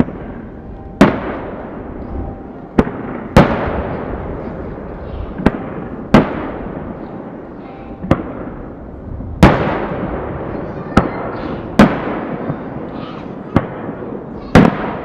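Aerial firework shells bursting: about eleven sharp booms at irregular intervals of one to two seconds, each trailing off in a long rolling echo.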